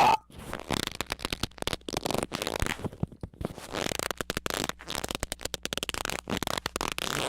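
A brief pitched squeak, then a harsh, rapid, crackling run of squeaking that stutters in quick irregular pulses.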